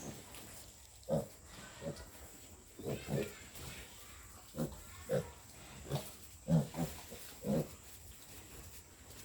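Two-week-old piglets grunting in short separate calls, about ten over several seconds.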